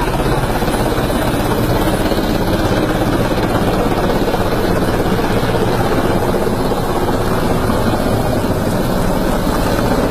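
Helicopter's rotor and engine running loud and steady, the blades beating fast.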